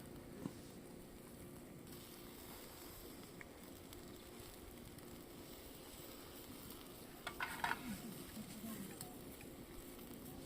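Food sizzling steadily on a grill, with a short clatter about three quarters of the way through.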